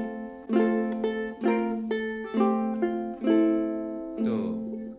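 Ukulele played fingerstyle: about six single notes plucked one after another, each ringing on over the others while a chord shape is held down.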